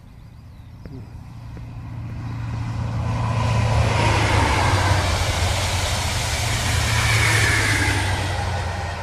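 InterCity 125 High Speed Train passing at speed, Class 43 diesel power car leading: a low engine drone and the rush of wheels on rail build up over the first few seconds, stay loud through the middle, and ease off near the end as the train goes by.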